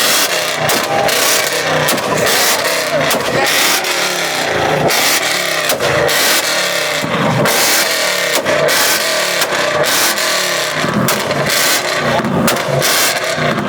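A car engine held on a two-step launch limiter at high revs, the exhaust crackling and popping rapidly and loudly without a break.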